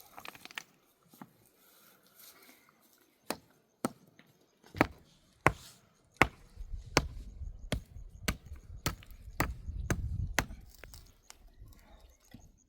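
A series of about a dozen sharp knocks, like blows struck on wood, beginning a few seconds in and settling into a steady pace of roughly one to two blows a second.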